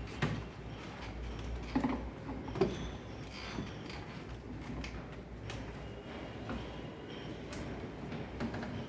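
A few knocks and clicks of parts being handled in work on a refrigerator, the loudest three in the first three seconds, over a steady low hum.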